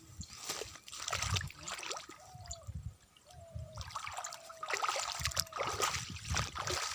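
Water trickling and splashing in a wet paddy field. A faint thin call sounds several times in the middle.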